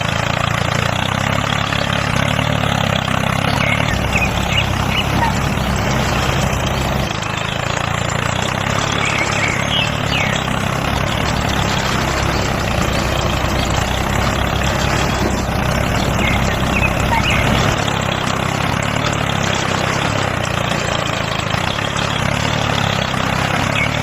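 The motor of a homemade mini tractor running steadily while it works a rotavator through mud, its low note shifting a couple of times.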